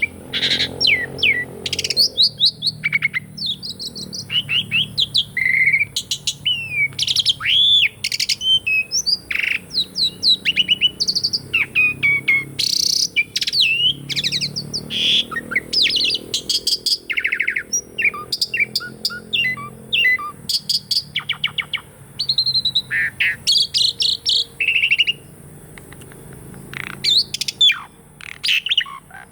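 Pied starling (jalak suren) singing a long, varied song: a fast run of whistles, rising and falling slurred notes and rapid chattering clicks, with a short lull near the end before it starts again.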